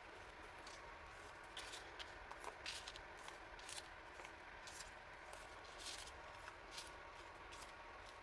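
Hands handling stationery and its packaging: a series of short, soft, irregular rustles and light clicks, faint over a low steady background hiss.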